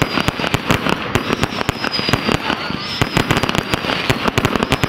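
Firework display going off in a dense, rapid barrage of bangs and crackles, many reports a second, with a thin high whistle wavering in pitch above them.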